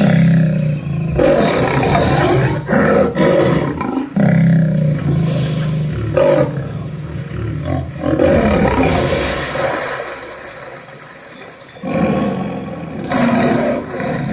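Male lion roaring and snarling in repeated loud bouts, with a quieter lull about ten seconds in before another bout.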